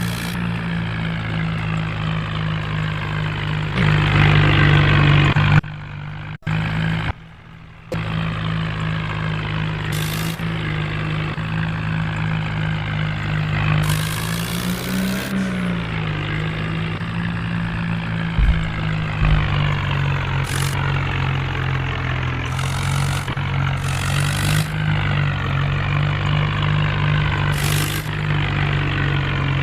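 Tractor diesel engine running steadily, with a louder surge about four seconds in and a couple of abrupt cut-outs soon after.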